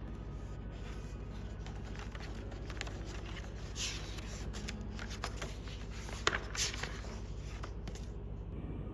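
Light rustling and scattered clicks of small things being handled, with a couple of sharper ticks past the middle, over a steady low hum.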